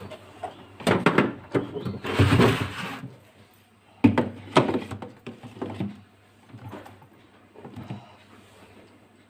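Plastic vegetable baskets being put into a refrigerator: a few knocks and clatters, a short scraping slide about two seconds in, then more knocks.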